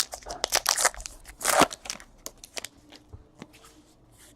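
Trading card pack wrapper crinkling and tearing as a pack is opened: a quick run of sharp crackles with one longer rip about a second and a half in, then fainter rustles.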